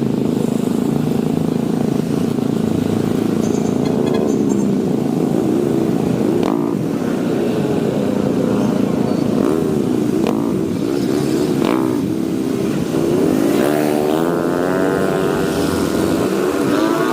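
Motorcycle engine and road noise while riding, the engine pitch rising and falling as speed changes, with a few short knocks.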